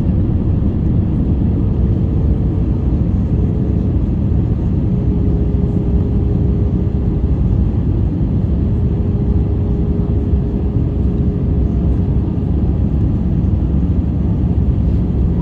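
Steady cabin noise inside an Airbus A320-214 in flight, heard from a window seat: a constant low rumble of the engines and airflow with a faint steady hum, on the way down toward landing.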